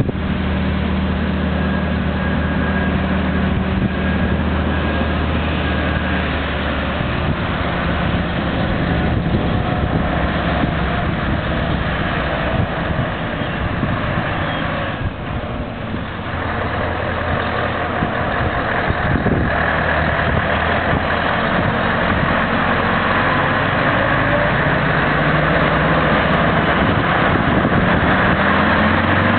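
Scania 143 trucks' V8 diesel engines running: a steady idle at first, then the trucks move off, with the engine note rising near the end as one accelerates.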